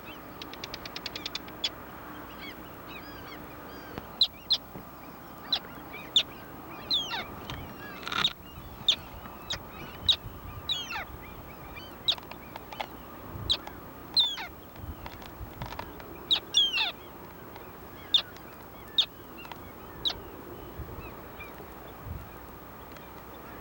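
Birds calling: many short, sharp, high-pitched calls, mostly falling in pitch, come at irregular intervals, with a quick rattling series near the start.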